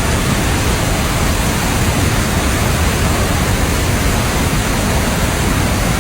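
Heavy rain pouring down, a loud, steady rush of noise with no let-up.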